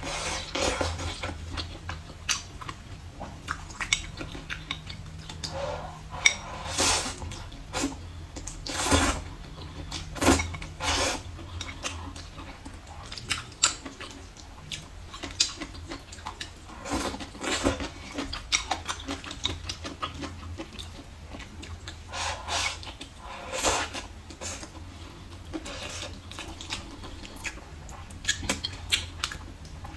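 Close-miked eating sounds: chewing and biting braised pork ribs and glass noodles, with wet mouth smacks and clicks coming in irregular bursts. A faint steady low hum sits underneath.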